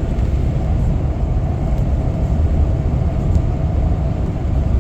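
Steady low rumble of a car being driven along a road: engine and tyre noise, even throughout, with a couple of faint clicks.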